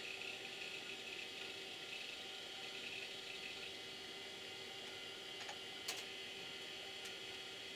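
Steady whir and hum of a running 486 desktop computer, its cooling fan and hard drive, with a few faint clicks near the end.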